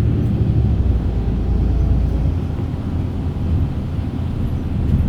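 A vehicle running: a steady, loud low hum and rumble.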